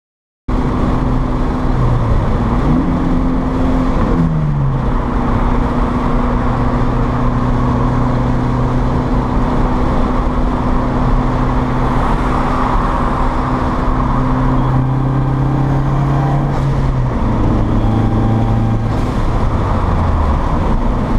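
Turbocharged 2.4-litre four-cylinder engine of a 2004 Dodge Neon SRT-4 under way, heard from inside the cabin over steady road and wind noise. Its pitch climbs, then drops sharply about four seconds in. It then holds a steady note and steps down twice near the end.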